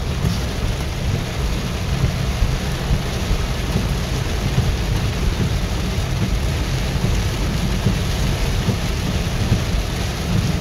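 Heavy thunderstorm downpour drumming on a car, heard from inside: a steady, dense rush of rain with a strong deep rumble underneath.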